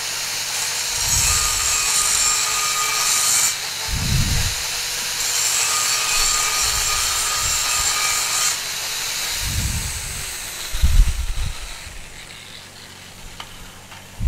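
Angle grinder grinding metal: a loud, hissing grind with a faint motor tone underneath. It eases off once a few seconds in, picks up again, and dies away towards the end, with a few low knocks along the way.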